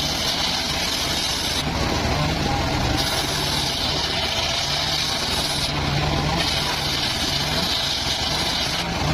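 Engine-driven homemade circular sawmill running steadily, its engine holding a low, slightly wavering hum. A higher hiss comes and goes three times, in stretches of about two to three seconds, as the blade cuts through timber.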